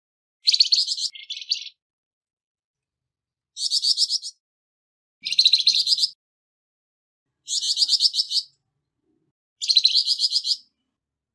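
Flamboyan songbird repeating a harsh, rapid chattering call: five phrases of about a second each, roughly two seconds apart.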